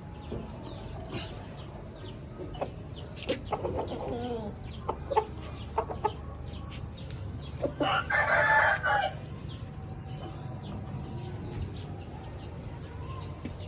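Aseel chickens clucking in short, scattered calls, with one loud rooster crow about eight seconds in lasting just over a second.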